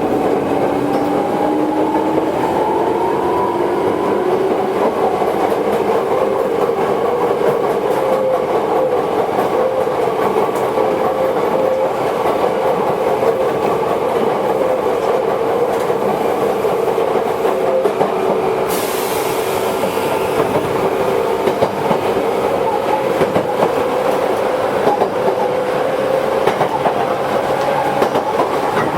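Running sound of a Toyohashi Railway 1800 series electric train, a former Tokyu car: the traction motor whine rises in pitch for the first few seconds as the train gathers speed, then holds steady, over wheel and rail-joint clatter. About two-thirds of the way through, a high hiss joins in.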